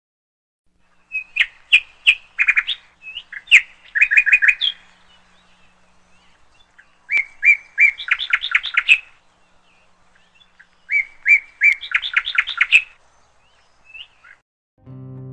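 A songbird singing: three phrases of quick, high chirps a few seconds apart, each phrase running into a fast series of notes.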